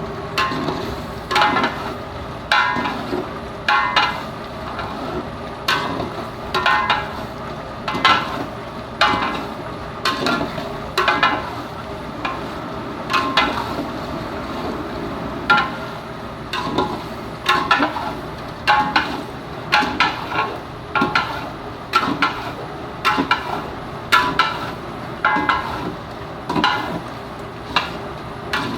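Metal ladle scraping and stirring a pot of frying chicken gizzards during bhuna, in regular strokes about once a second with a slight metallic ring, over a steady sizzle of hot oil.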